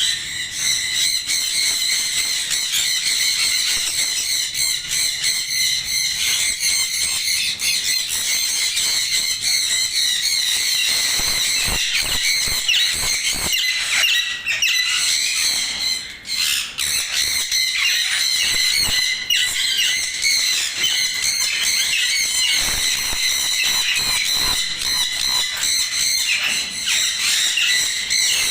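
A large group of parrots squawking and chattering without pause, many shrill calls overlapping.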